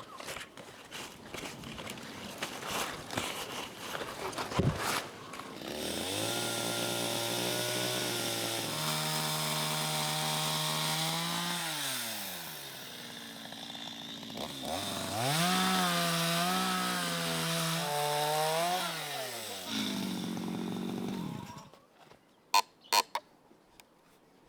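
A small engine running from about six seconds in, its pitch rising and falling as it is revved, then stopping a few seconds before the end; rustling and handling noises before it starts and a few sharp clicks after it stops.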